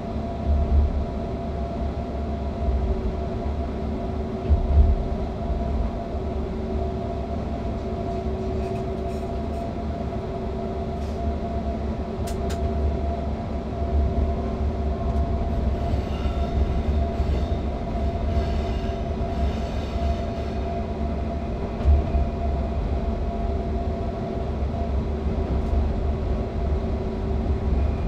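Electric train running uphill, heard from the driver's cab: a steady rumble with a constant motor hum, a few knocks from the running gear, and about halfway through a few seconds of higher squeaking clicks.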